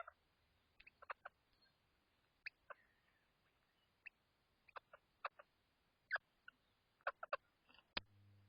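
Faint, scattered short sharp clicks or taps, some coming in quick pairs and threes, over near silence. A low hum starts near the end.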